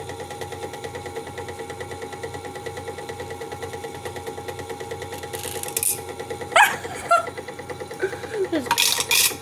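Battery-powered toy washing machine's small motor running with a fast, even pulsing whirr as the drum spins, on nearly flat batteries. A few short knocks and rustles come in the second half.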